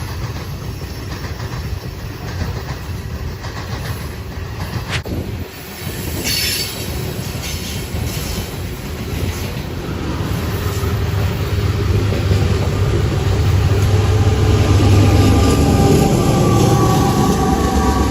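Train running on the rails with a steady low rumble that builds louder over the second half, and some wheel squeal.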